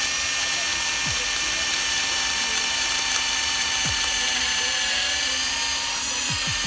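Electric drill running steadily under load, its whine dipping slightly partway through. It is drilling out a broken thermostat-housing stud seized in the engine block.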